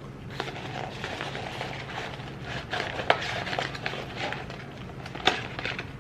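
Close-up eating sounds of fast food: irregular crackling and clicking, with two sharper clicks about three seconds and five seconds in.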